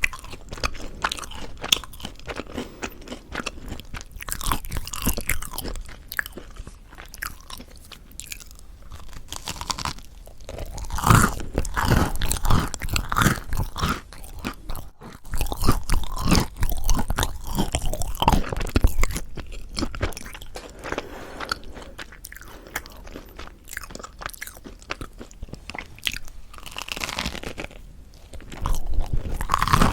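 Crispy-crusted mocha chapssal bread being bitten and chewed close to the microphone: a dense run of crackly crunches, louder in the middle and again near the end.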